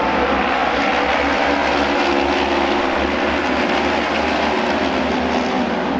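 Several auto race motorcycles racing together, their engines running hard at high revs with pitches drifting against one another.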